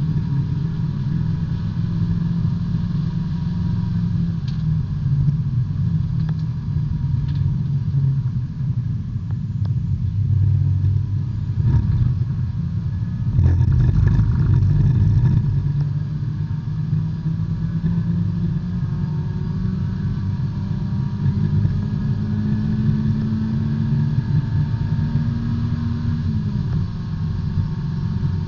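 B-Spec subcompact race car's four-cylinder engine pulling hard under racing load, heard from inside the cabin. Its pitch climbs slowly over about ten seconds, then drops sharply near the end.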